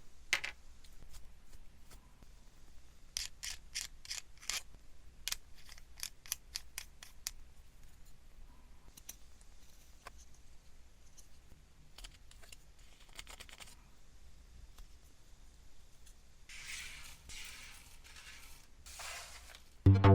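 A plastic model kit being assembled by hand: sharp clicks of hobby nippers cutting parts from the runners and pieces snapping together, some in quick runs. Near the end come two longer rasping rubs, about a second each.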